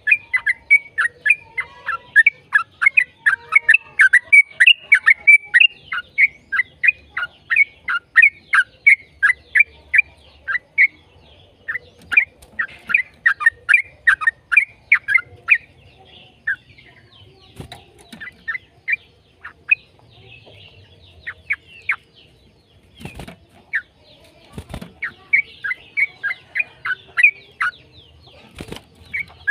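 Yellow-vented bulbul (trucukan) singing a fast chattering run of short falling notes, about four a second. The run thins out around halfway and picks up again near the end, with a few dull thumps in between.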